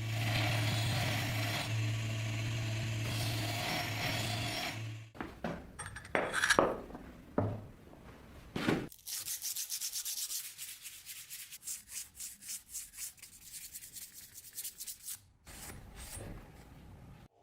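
Sanding on an axe being restored. A power tool runs with a steady hum for about five seconds, then a few separate scrapes follow, then a run of quick rhythmic sanding strokes by hand lasting about six seconds.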